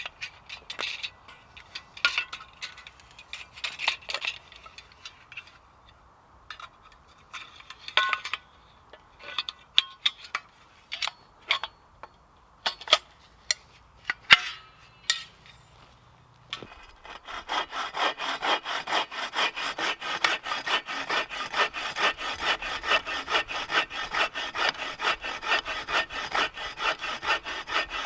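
Scattered knocks and clicks, then from about two-thirds of the way in a hand saw cutting through firewood with quick, regular strokes.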